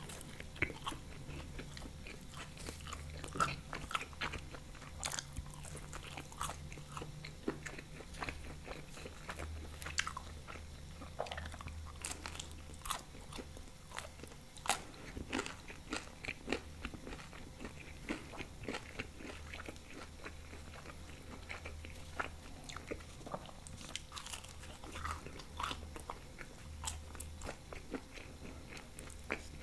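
Close-miked biting and chewing of thin-crust bechamel pizza: irregular crunches and clicks of crust and mouth, with a faint steady low hum underneath.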